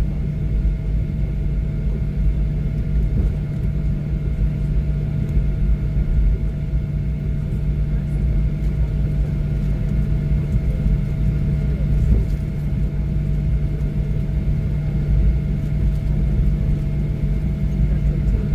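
Cabin noise inside a Boeing 737-700 taxiing after landing: a steady low rumble with a constant hum of a few steady tones from the CFM56-7B engines at idle.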